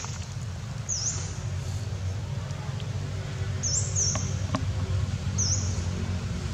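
Short, high-pitched bird chirps, each a quick dip and rise in pitch, heard about a second in, twice near four seconds and again past five seconds, over a steady low hum.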